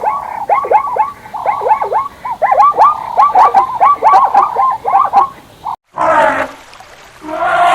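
An animal giving a rapid series of short, high calls, about twenty in five seconds, each dropping quickly in pitch. After a brief break come two louder, harsher calls.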